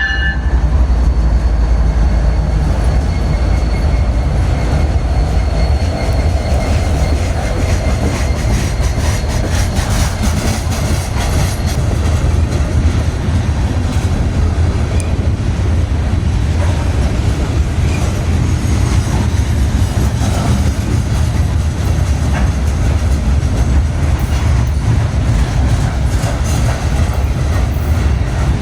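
A train's cars rolling past close by, with a steady loud rumble and clatter of wheels on the rails. The locomotive's horn cuts off right at the start.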